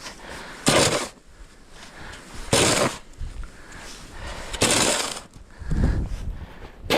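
Short noisy scraping or rushing bursts, each about half a second long, repeating roughly every two seconds; the last one has a heavier low rumble.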